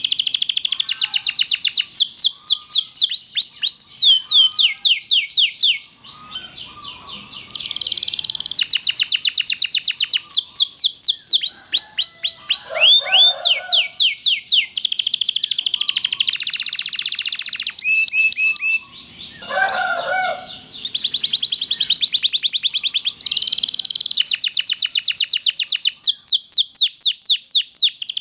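Domestic canary singing long rolling trills: fast runs of repeated high, downward-sweeping notes, broken by two short pauses.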